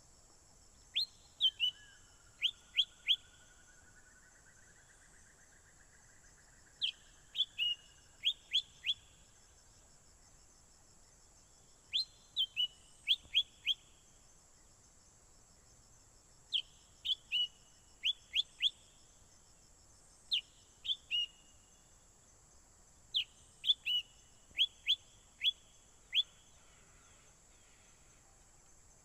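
Songbird singing in short phrases of three to five sharp, quickly falling whistled notes, repeated every four to five seconds, used as a lure call to bring in rival birds. A fainter wavering trill runs under the first phrases, over a steady high hiss.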